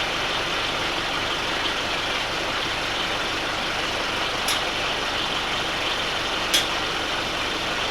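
A vehicle engine idling steadily, with two short sharp clinks a couple of seconds apart in the second half.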